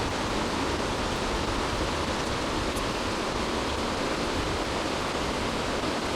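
Steady rush of flowing creek water with heavy rain falling.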